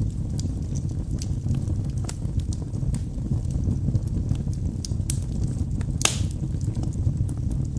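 Wood fire burning in a fireplace: a steady low rumble of the flames with scattered sharp crackles from the logs, and one louder pop about six seconds in.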